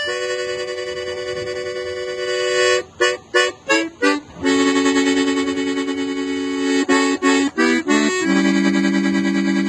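Accordion playing alone: a long held chord, then a few short detached chords a little after 3 seconds in, another long chord, a quick run of short notes near the end, and it settles on a held low chord.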